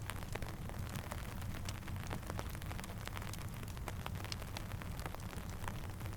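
Steady rain mixed with a crackling campfire: a constant low rumble and hiss, scattered with many sharp crackles and ticks.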